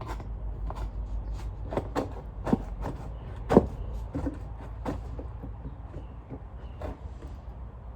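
Vacuum cleaner parts being handled and knocked: irregular clicks and knocks, the loudest about three and a half seconds in, over a low steady hum.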